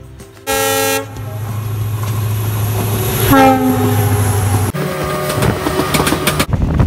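Indian Railways diesel locomotive passing close on the adjacent track: a short horn blast about half a second in, then a second horn note that drops in pitch as the locomotive goes by, over the engine's steady low hum. After that the coaches rush past with rapid wheel clatter.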